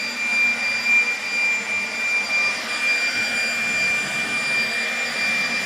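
A handheld leaf blower running at a steady speed: a high whine over a rush of air, used to blow out a deer feeder.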